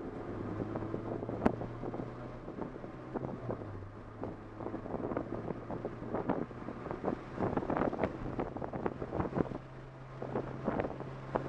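Engine of a K20-swapped Honda Insight, a 2.0-litre Honda inline-four, running steadily with a low, even drone, heard from inside the car's hatchback. Scattered light clicks and knocks come through, more of them in the second half.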